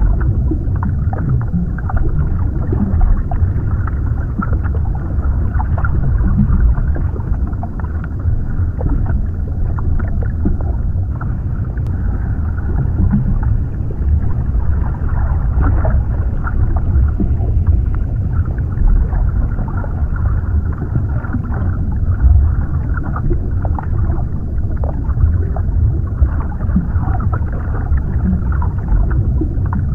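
Underwater ambience: a steady deep rumble and muffled water movement, with scattered faint bubbling and crackling ticks.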